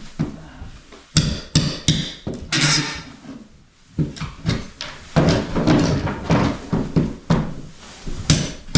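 Irregular knocks and bangs from hand repair work, many sharp and some coming in quick succession.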